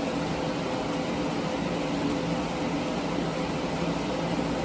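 Steady machine hum with a fan-like hiss, running evenly throughout, and one faint tick about two seconds in.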